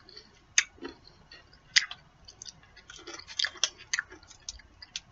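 A person chewing a chewy, sticky candy, heard as scattered, irregular mouth clicks.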